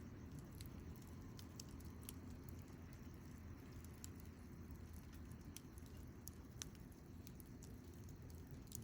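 Wood campfire burning faintly: a low steady rumble with scattered small crackles and pops from the burning wood, one pop a little sharper than the rest about two-thirds of the way through.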